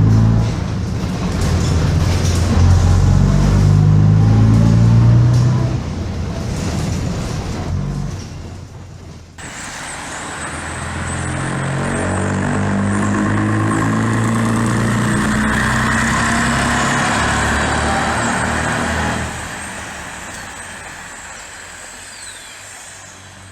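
Bristol RELL6L single-deck bus's diesel engine pulling hard with its pitch rising, easing off about five or six seconds in. It then pulls up again for a long stretch before dropping back near the end as the sound fades out.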